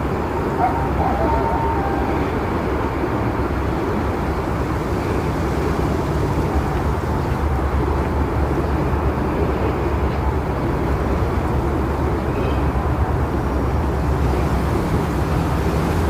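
Strong blizzard wind, about 50 km/h, blowing as a steady dense rushing noise, with a low rumble of the wind buffeting the microphone.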